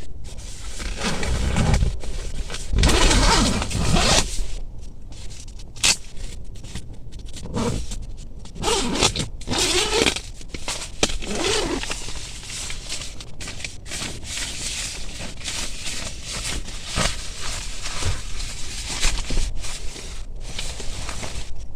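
Irregular rustling, scraping and zip-like rasps of a camping tent's fabric and parts being handled as it is pitched.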